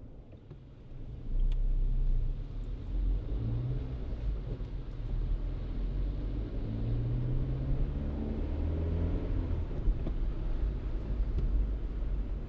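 Car driving on a road: a low rumble comes up about a second in, with an engine note that rises in pitch as the car speeds up.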